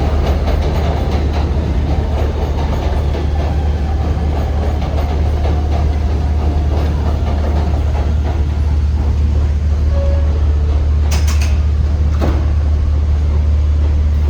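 R160 subway train running on the track with a steady low rumble and wheel noise. Rapid clicks sound in the first couple of seconds, and a faint whine falls slowly in pitch. Two sharp clacks come near the end.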